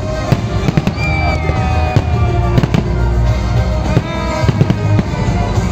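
Fireworks display with many sharp bangs of shells bursting in quick succession, over loud music playing.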